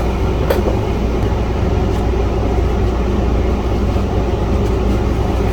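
Steady low mechanical hum with a hiss over it, and a faint click about half a second in.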